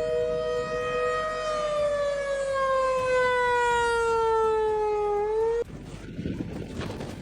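A loud two-tone warning signal holds steady, then glides slowly down in pitch. It cuts off abruptly about five and a half seconds in, giving way to a quieter rushing noise.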